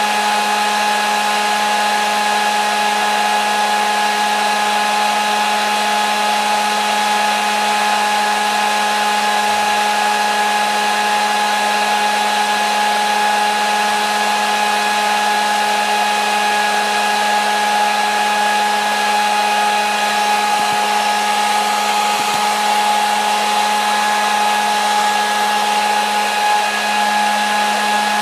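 Hair dryer running continuously: a steady rush of air over a constant motor hum and whine that does not change.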